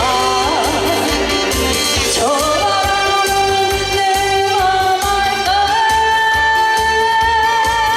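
A female singer singing a trot song live over an amplified backing track with a steady beat. She holds long notes with a slight waver in the second half.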